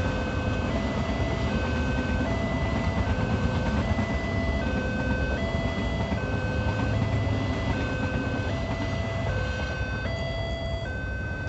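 Passing train rumbling steadily, easing off near the end. Over it a two-tone electronic warning signal sounds, switching between a higher and a lower chime about every three-quarters of a second.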